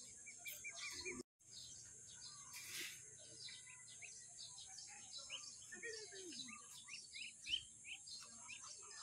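Faint bird chirping: many short, quick chirps over a steady high-pitched drone. The sound cuts out completely for a moment about a second in.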